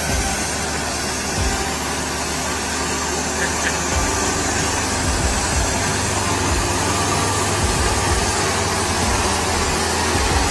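A vehicle engine running steadily with a low hum under a constant wash of noise.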